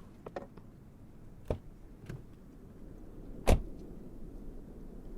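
A few small clicks as a car door is opened, then the car door shuts with a single loud thump about three and a half seconds in.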